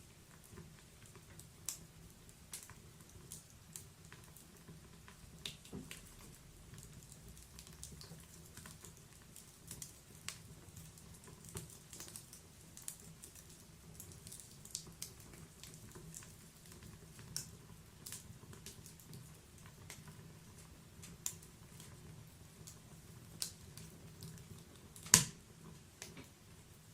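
Wood fire burning in a fireplace: irregular sharp crackles and small pops over a low hiss, with one loud pop near the end.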